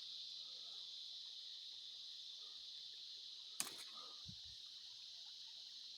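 Faint steady chorus of crickets and other insects, with a single sharp click about three and a half seconds in.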